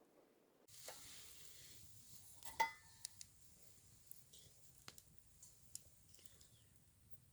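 Food faintly sizzling in a pan, with scattered small clicks of a utensil and one sharper clack about two and a half seconds in.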